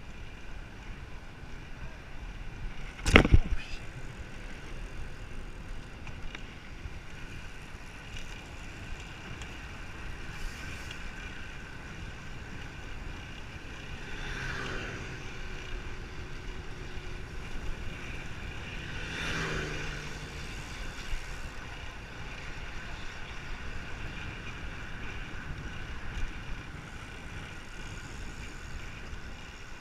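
Steady road and wind noise with two vehicles passing, one about halfway through and one about two-thirds of the way in. A single sharp knock about three seconds in.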